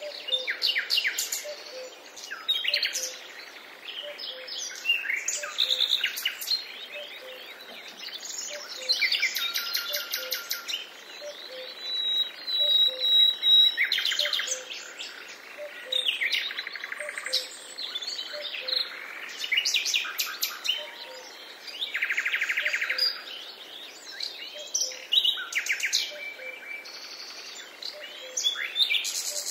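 Several songbirds singing and chirping at once, a busy forest chorus of short calls and fast trills that overlap and follow one another.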